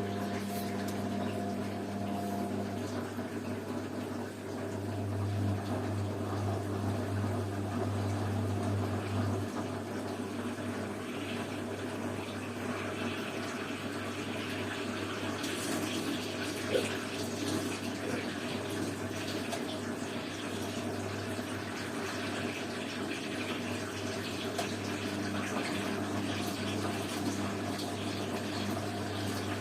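Washing machine at work: water running and splashing inside it over a steady low hum, which grows louder for a few seconds about five seconds in.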